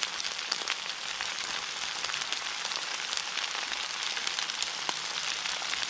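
Whole crayfish and onions frying in oil in a large frying pan: a steady sizzle dotted with small crackling pops.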